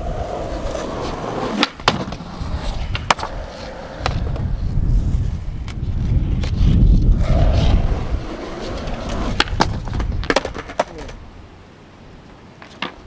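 Skateboard wheels rolling with a low rumble in two runs, broken by several sharp clacks of the board and trucks hitting the ground. There is a cluster of clacks about ten seconds in, then it goes quieter.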